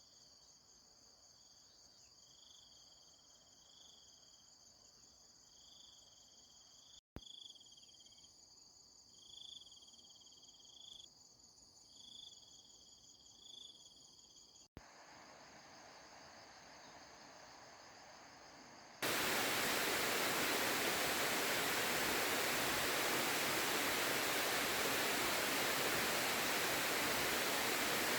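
Insects chirring in a steady high drone, with a shorter call repeating above it about once a second. About two-thirds of the way through, this gives way abruptly to a much louder, even rushing noise.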